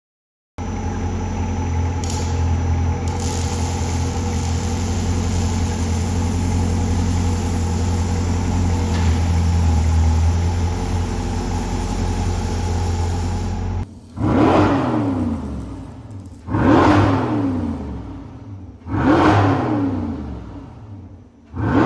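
C8 Corvette's V8 running through its exhaust: a steady idle drone, then four throttle blips about two and a half seconds apart, each rising sharply and falling back to idle.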